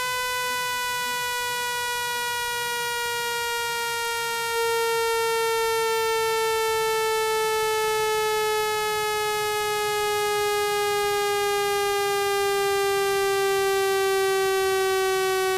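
Electronic speaker-cleaning tone meant to vibrate water out of a phone speaker: a single buzzy, horn-like tone that slides slowly down in pitch, getting a little louder about four and a half seconds in.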